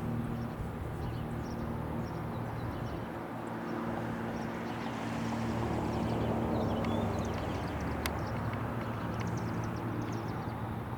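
Steady low mechanical hum, like an idling engine, over a noisy outdoor background, with faint short high chirps scattered through and a single sharp click about eight seconds in.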